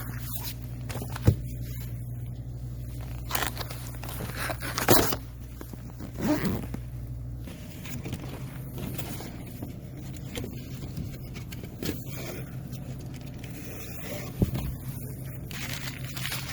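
Scraping and rustling handling noises with a few sharp knocks, over a low steady hum that cuts off about halfway through.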